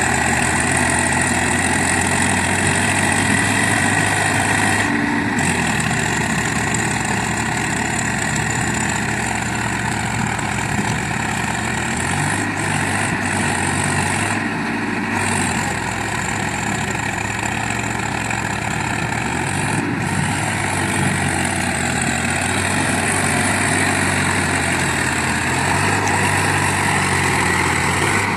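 Swaraj 744XT tractor's diesel engine running continuously, its speed dropping and rising several times.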